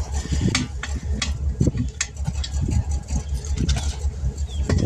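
A vehicle engine idling steadily, with scattered short clicks and knocks over it.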